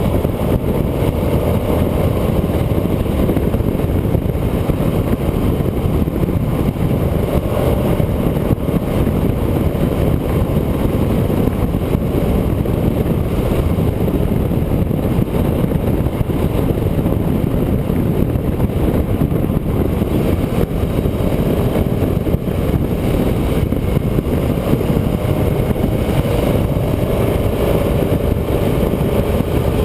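A vehicle driving along a road, heard on board: an engine running steadily under a constant rush of road and wind noise. The engine note climbs a little near the end.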